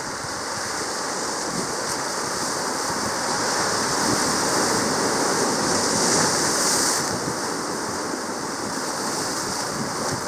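Steady rushing sea-water noise that swells toward the middle and eases off after about seven seconds.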